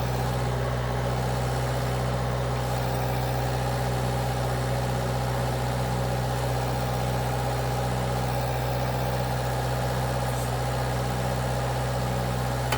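An engine idling steadily with an even, unchanging low hum.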